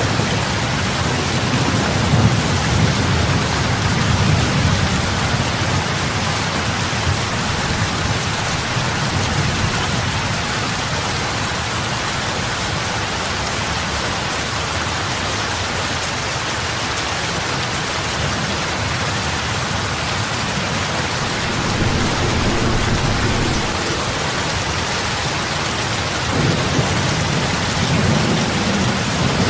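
Heavy rain falling on open lake water: a steady, even hiss of drops hitting the surface. Under it a low rumble swells and fades, strong in the first few seconds and again twice near the end.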